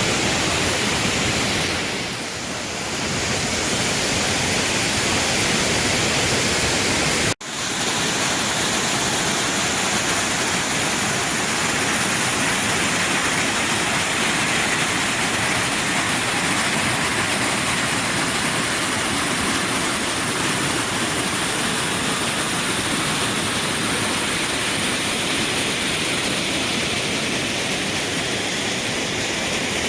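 Waterfall: a loud, steady rush of falling water, with a sudden momentary break in the sound about seven seconds in.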